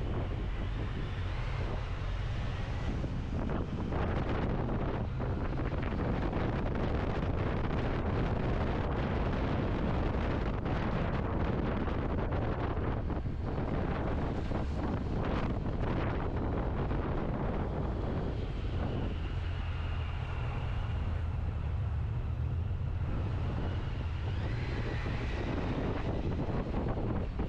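Motorcycle engine running under way, with heavy wind buffeting on the microphone; a faint whine rises and falls a couple of times.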